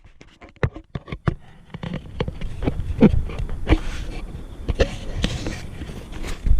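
Handling noise: a run of irregular clicks and knocks with some rustling.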